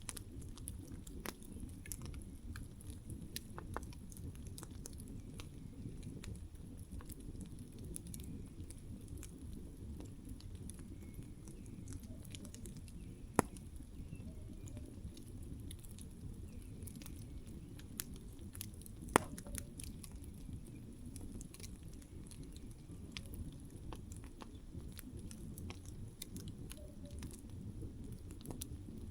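Campfire burning with a steady low rumble of flames and scattered crackles from the burning wood, with two sharper pops partway through.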